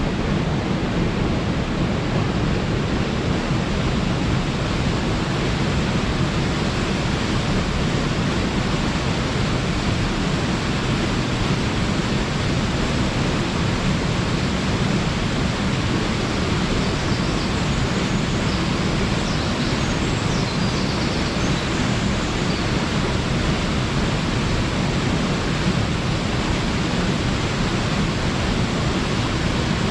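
Waterfall running high after a typhoon: a constant, unbroken rush of falling water, heaviest in the low range.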